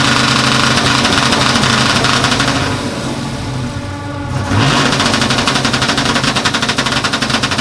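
Pickup truck engine revved and held high twice, with a dense, rapid exhaust rasp. It eases off for a moment about three seconds in and then comes back up.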